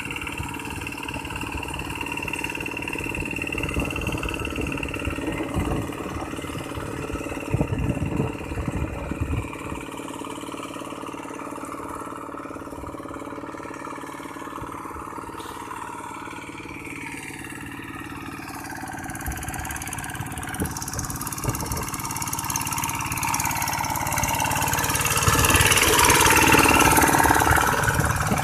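Tractor engine running steadily, growing louder near the end.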